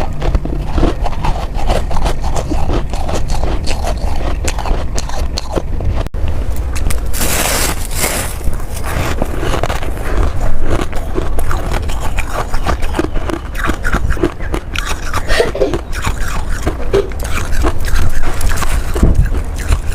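Close-miked crunching of ice being bitten and chewed, a dense run of crackly crunches, with a longer scraping rush about seven seconds in.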